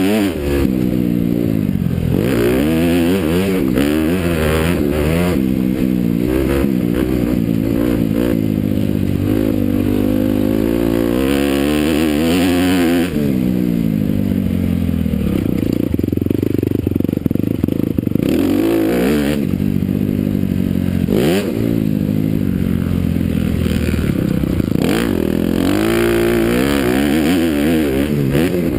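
Honda CRF250R motocross bike's single-cylinder four-stroke engine being ridden hard on a dirt track. It revs up and drops back over and over as the rider accelerates, shifts and rolls off for corners and jumps.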